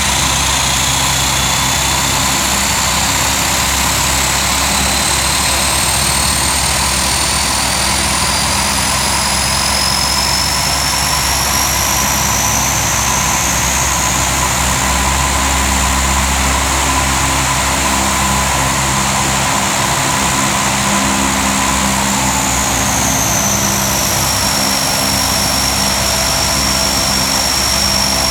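Lockheed P-3C Orion's Allison T56 turboprop engines running on the ground during engine start, a steady loud drone with a high turbine whine that slowly rises in pitch, then drops about 22 seconds in and settles to a steady whine.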